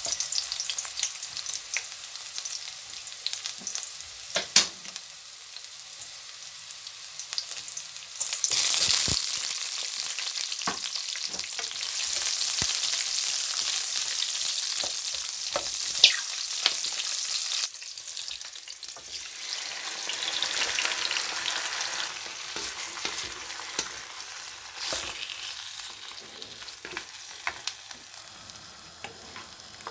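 Garlic sizzling in hot oil in a speckled enamel wok, stirred with a wooden spoon that knocks now and then against the pan. About eight seconds in, the sizzling jumps sharply as chopped onion goes into the oil. Later it falls away suddenly, then builds again with chicken wings in the pan.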